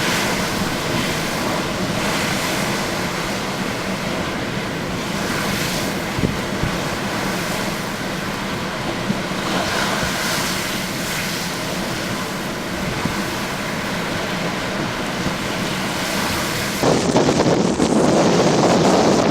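Strong waves breaking and washing in a violent wind, a steady noise that swells every few seconds. Near the end it switches abruptly to heavy wind buffeting on the microphone.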